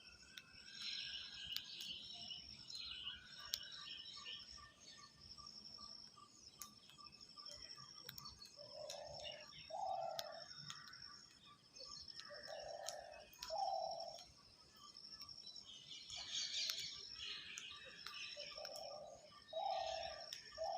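Birds chirping, with a low two-note call repeated three times, the two notes about a second apart, over a steady high insect drone and small scattered clicks.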